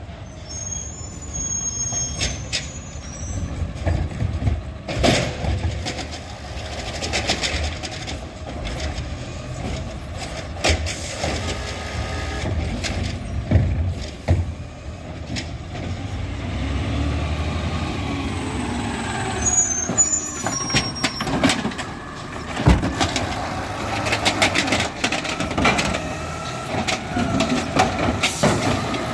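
Garbage truck at work: its diesel engine running steadily, with repeated loud clanks and bangs and a whine that rises and falls for several seconds in the middle.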